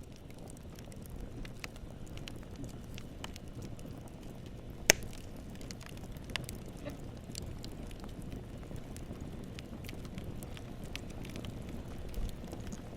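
Campfire crackling: a low steady rumble of burning wood with scattered sharp crackles and pops, one much louder pop about five seconds in.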